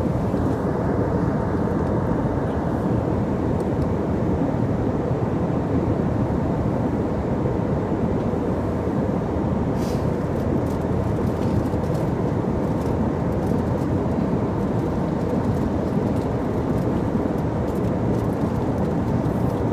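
Steady airliner cabin noise: the even rumble and rush of the jet engines and airflow heard from inside the passenger cabin, with a faint click about halfway through.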